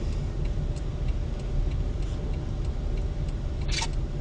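Steady low rumble of a car driving, with a light regular ticking over it and one short, sharp noisy burst near the end.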